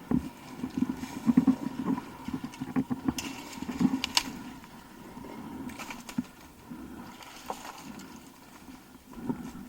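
Dirt bike running at low speed over rough ground, an uneven low engine sound broken by irregular knocks and rattles.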